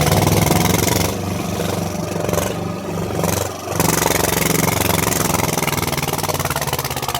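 Tractor engine running loud with a fast, even low throb; it eases a little and then picks up again about four seconds in.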